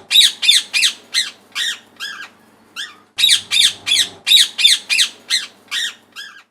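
Indian ringneck (rose-ringed) parakeet screeching: loud, shrill calls repeated about three a second, in two runs with a short break near the middle.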